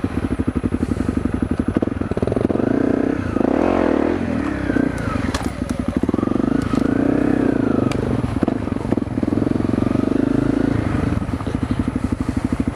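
Honda CRF250L's single-cylinder fuel-injected engine running after the bike was laid over in a crash, with two throttle blips, about a third of the way in and past halfway, where the pitch rises and falls back.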